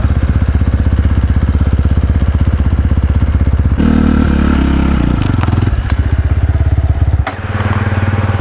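Dirt bike engine running with a steady pulsing beat. Its note changes about four seconds in, a few sharp knocks come in the middle, and the low rumble drops suddenly about seven seconds in.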